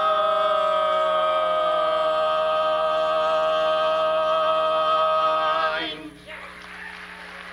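Barbershop quartet holding the final chord of a song, the voices ringing together while one lower voice glides down beneath it. The chord is released about six seconds in and applause follows.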